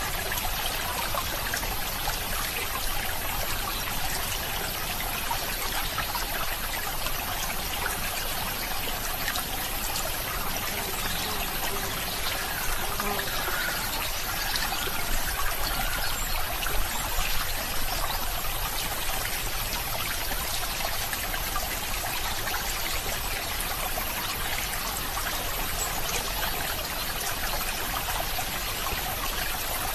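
Water trickling and running in a small stream, a steady rush that swells slightly for a few seconds midway.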